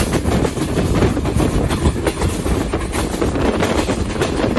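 Passenger coaches of the Tezgam Express running along the track, a steady rumble with irregular clattering of the wheels over the rails, heard from an open doorway of a moving coach.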